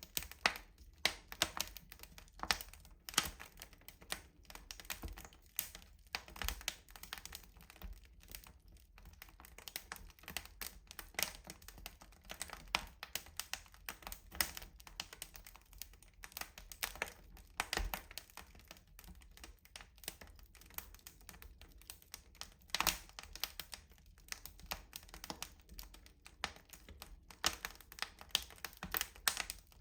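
Wood fire crackling in a rustic stove: a steady stream of irregular snaps and pops, with a few sharper cracks standing out, one about three-quarters of the way through.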